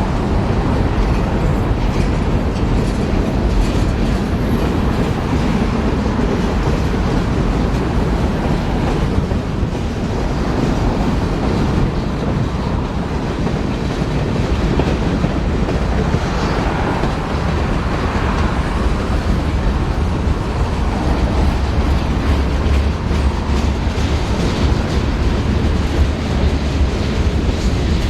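A train passing on the track, its cars rolling by with a steady rumble and clickety-clack of wheels over the rails.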